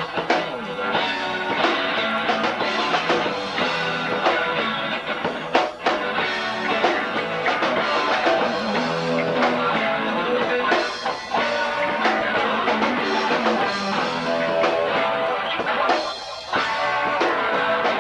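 Live rock trio playing an instrumental passage: electric guitar, bass guitar and drum kit, with no vocals.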